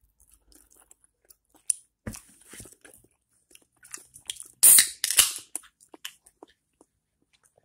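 A person chewing and biting overcooked chicken close to the microphone, with crisp crunching in short irregular bites; the loudest bites come a little past halfway.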